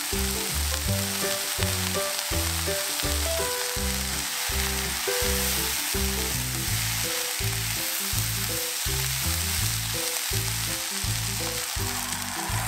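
Sliced button mushrooms and onions sizzling as they fry in oil in a frying pan, stirred with a spatula, with cream starting to pour in near the end. Background music with a steady low beat plays underneath.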